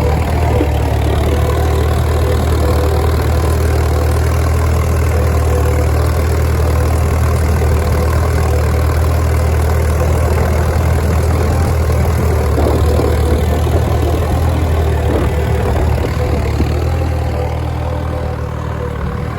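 Case DC tractor's four-cylinder engine running steadily, getting a little quieter near the end.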